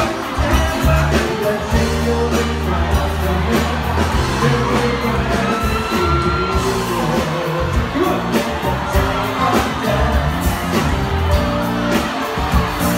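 Live pop band playing loud with a singer's voice over heavy bass and drums, and the crowd whooping and shouting along.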